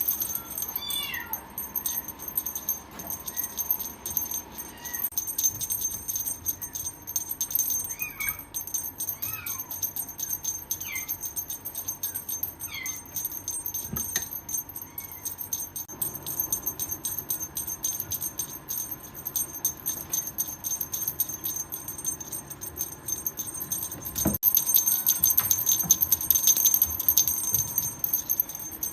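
Cat meowing in short calls that fall in pitch, several times in the first half. Under the meows runs a continuous jingling, rattling sound like small bells or a shaker, which grows louder near the end. Two sharp knocks come about halfway through and again later.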